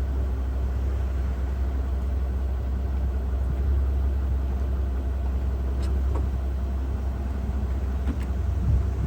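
Mercedes-Benz SL600's twin-turbo V12 idling with a steady low hum, with a couple of faint clicks about six and eight seconds in.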